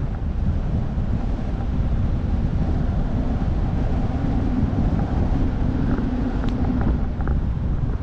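Wind buffeting the microphone: a steady, loud rumbling rush, with a faint low hum underneath for a few seconds midway.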